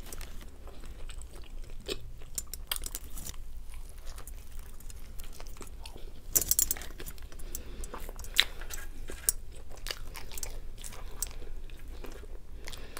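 Close-up mouth sounds of chewing a bite of a Burger King Nightmare burger, with many small sharp clicks. A louder burst comes about six and a half seconds in, and a single sharp click a little past eight seconds.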